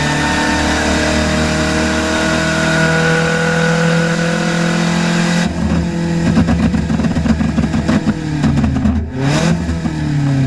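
Drag car's engine at full throttle heard from inside the cabin, its pitch climbing slowly. About five and a half seconds in the throttle is lifted and the engine note turns choppy and crackling, then falls in pitch near the end as the car slows.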